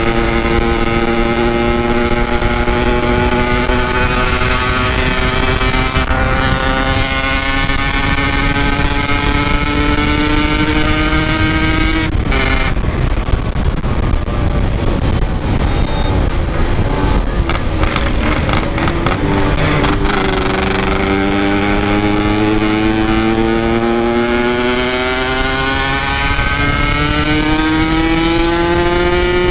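Yamaha RX-King two-stroke single running under load, its note rising slowly through a long pull. About twelve seconds in the throttle comes off and the note breaks up for several seconds, then it picks up and climbs again through another long pull before dropping suddenly near the end, as at a gear change. The rider says the engine is knocking badly.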